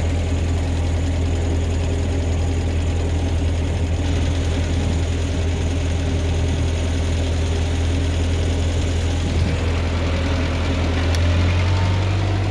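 Ford 8N tractor's four-cylinder engine running steadily as the tractor putts along, a steady low drone that swells slightly near the end.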